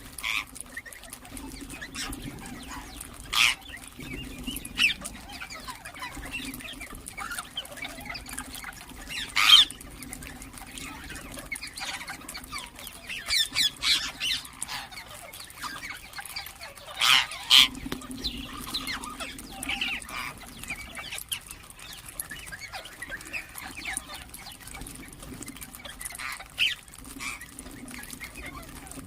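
Rose-ringed (Indian ringneck) parakeets giving short, shrill calls every few seconds, the loudest in two clusters about halfway through. A low hum comes and goes underneath.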